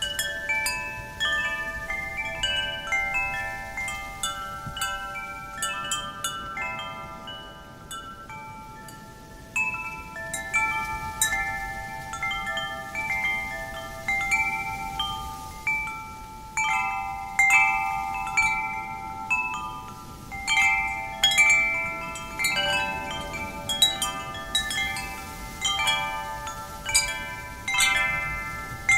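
Wind chimes ringing, stirred by the wind: many clear, overlapping tones struck at irregular moments. They thin out about a third of the way in and grow busier through the second half. A soft wind rush lies underneath.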